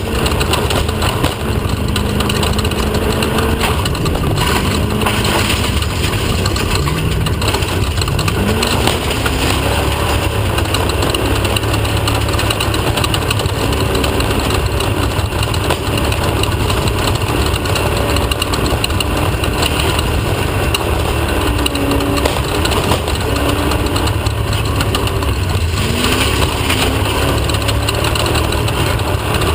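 Off-road race vehicle's engine running hard with a heavy rumble and a steady rattle of noise over it. Its pitch climbs and falls again several times with throttle and gear changes.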